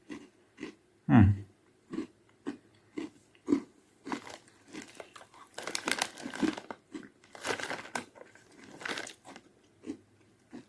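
A person chewing a crunchy millet (ragi) filled cereal bite: short, regular chews about twice a second, with one louder knock about a second in, then denser, crackly crunching in the second half.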